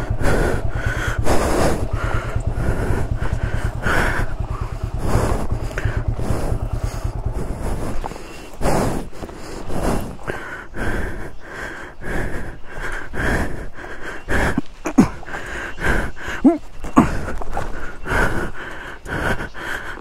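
A motorcycle engine idling, switched off about seven seconds in, with a person breathing heavily throughout.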